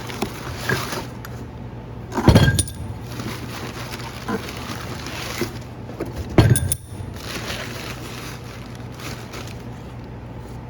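Two loud metallic clanks, about two seconds in and again past six seconds, with a few lighter clinks of steel parts and tools being handled, over a steady low hum.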